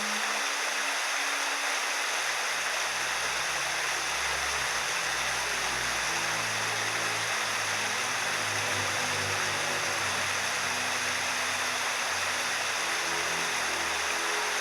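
Mountain stream water rushing steadily over rocks, with soft background music of low held notes underneath.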